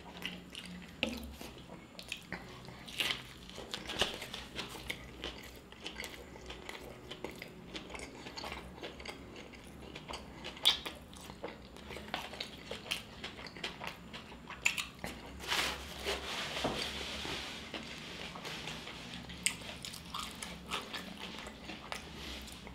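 Close-miked chewing and biting of a chicken sandwich, with irregular crunches and wet mouth clicks. A stretch of softer rustling noise comes about sixteen seconds in.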